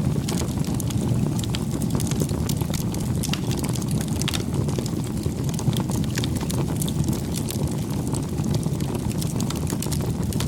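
Wood campfire burning, with a steady low rumble of flame and frequent small crackles and pops of burning wood.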